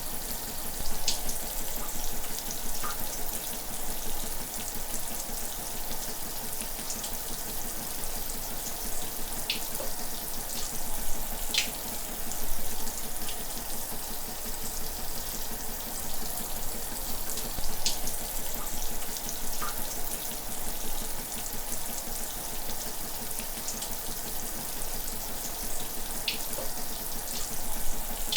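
Shower running steadily, an even hiss of falling water with occasional small splashes.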